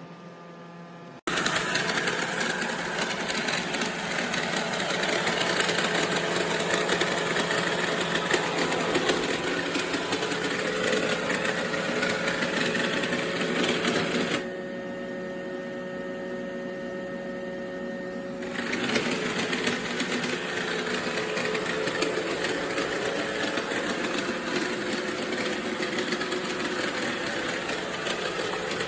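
Roomba Combo i5 robot vacuum running with a steady motor and brush whir. It starts suddenly about a second in, drops to a quieter hum with a steady tone for a few seconds in the middle, then picks up again.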